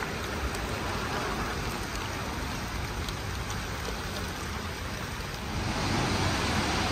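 Steady heavy rain falling and pattering on hard surfaces. About five and a half seconds in it grows a little louder, with more low rumble underneath.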